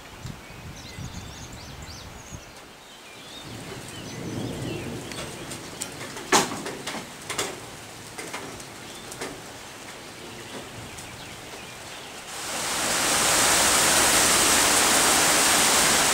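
Rain falling steadily at a low level, with a few faint bird chirps and a couple of sharp clicks, then about twelve seconds in a much louder, even hiss of heavy downpour swells up quickly and holds.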